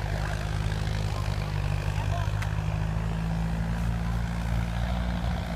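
Yanmar 1185S tractor's four-cylinder turbo diesel engine running steadily at a constant speed.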